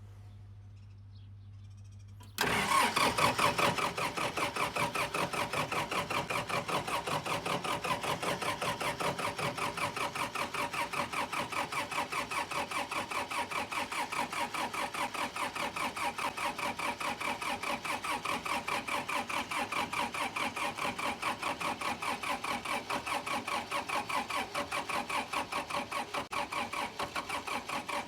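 Ford 7000 tractor's four-cylinder diesel engine starting cold at 34°F. It fires suddenly about two seconds in, loudest for about a second, then settles into a steady, evenly pulsing idle.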